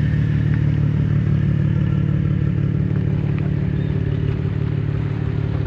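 Vehicle engine running steadily at a constant speed, a deep, even rumble with no revving.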